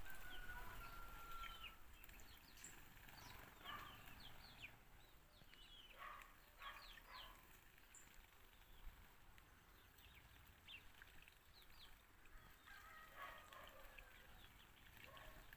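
A flock of sparrows chirping faintly: many short, scattered chirps, some in quick clusters.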